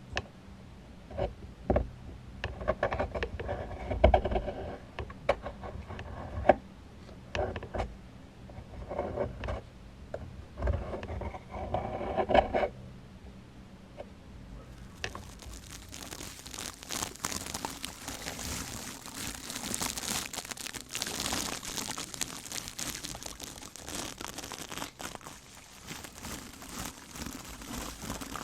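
Close-miked handling of objects: scattered taps, clicks and crinkling for about the first twelve seconds, then from about fifteen seconds a steady, bright hissing rustle like scratching or brushing.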